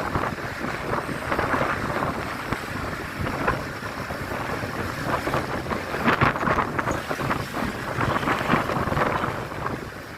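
Wind buffeting the microphone over a low rumble of road traffic.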